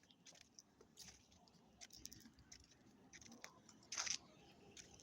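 Near silence with a few faint scattered clicks and rustles, the loudest a short cluster about four seconds in.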